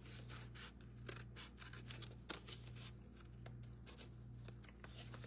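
Scissors cutting thin cereal-box cardboard: a faint, irregular run of snips and crunches.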